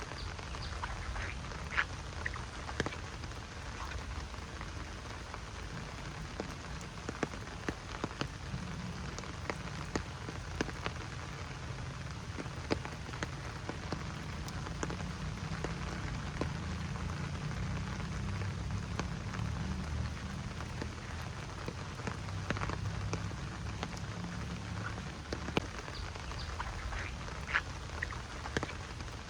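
Steady rain falling in a forest, with many single drops ticking sharply close by. A low rumble swells through the middle and fades again.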